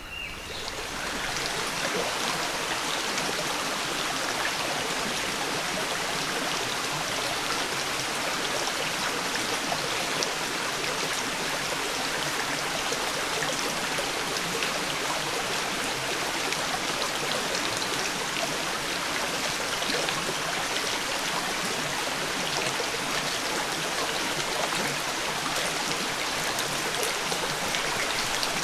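Steady rush of water, fading in over the first second or two and then holding even throughout.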